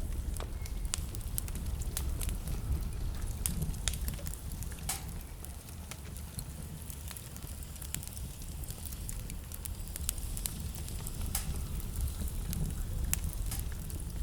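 Wood fire burning in a fireplace, crackling and popping with many irregular sharp snaps, over a steady low rumble.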